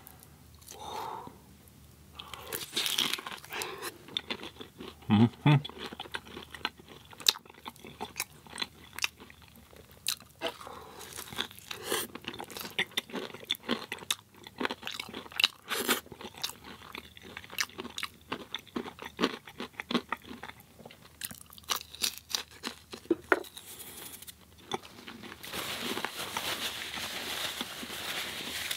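Close-miked chewing and crunching of crispy fried vegan tots and samosas, with irregular sharp crunches throughout. There are two loud low thumps about five seconds in, and a few seconds of steadier rustling noise near the end.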